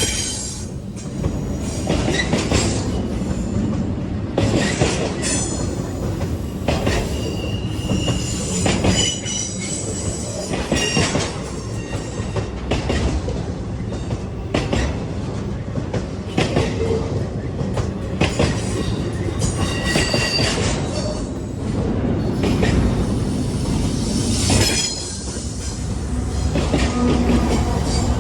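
A train rolling past, its wheels knocking irregularly over rail joints over a steady low rumble, with high-pitched wheel squeals coming and going.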